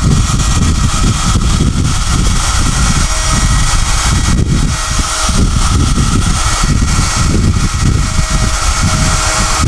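SOUNATE high-airflow hair dryer blowing steadily, with a thin steady whine over the rush of air and a gusty low rumble that rises and falls as the air stream moves.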